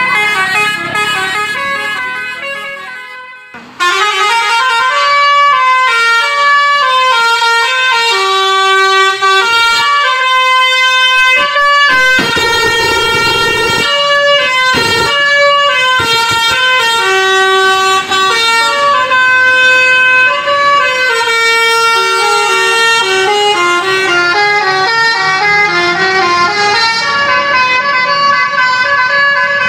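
A reedy, horn-like tone playing a tune in held notes that step up and down in pitch. It fades out a few seconds in, breaks off, then starts again suddenly and carries on loud.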